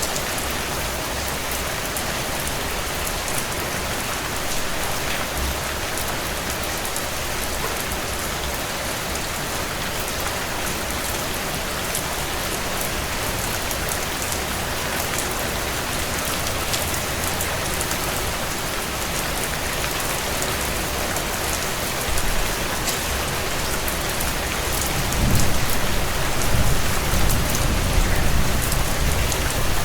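Steady heavy rain on window glass, with scattered small crackles of a wood fire. About 25 seconds in, a low rumble of distant thunder rolls in and the sound grows louder.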